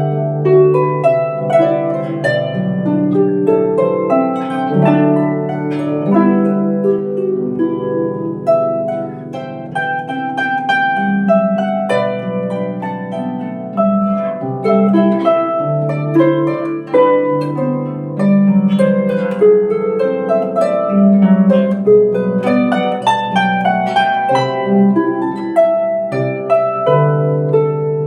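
Celtic harp playing a melody over a plucked bass line: many overlapping plucked notes that ring on.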